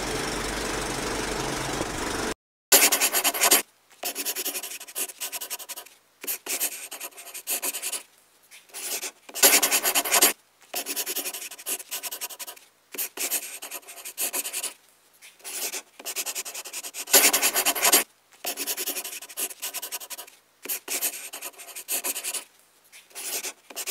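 Pen scratching across paper in many separate strokes of differing length with short pauses between them, a few longer, louder strokes among them. Before it, a steady mechanical whirr cuts off about two seconds in.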